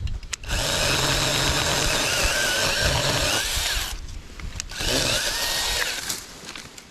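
Battery-powered 20-volt mini chainsaw running in two bursts, a long one of about three and a half seconds and a short one of about a second and a half, its motor whine wavering as the chain cuts into a tree limb. A few sharp clicks come just before each burst.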